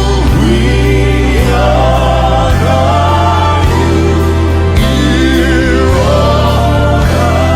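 Gospel worship music: voices singing sustained, gliding melody lines over a band with a steady, full bass.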